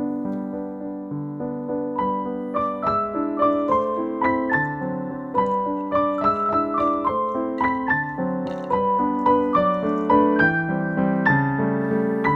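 Background piano music: a steady run of notes over chords, getting a little busier about two seconds in.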